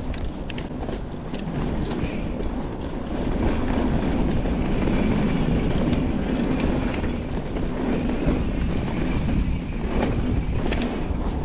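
Nukeproof Reactor mountain bike ridden over rough trail: steady tyre and ground rumble with a clattering rattle and scattered sharp clicks. The rattle is cable rattle in the frame's internal cable routing, where a grommet has worked loose.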